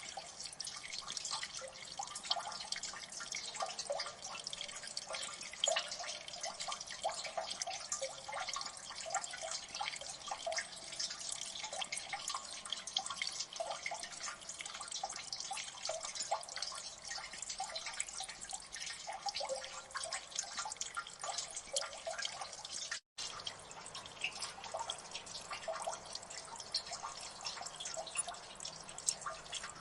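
Water dripping in a gully: many quick drops pattering over a steady wash of running water. A split-second dropout cuts the sound about three quarters of the way through.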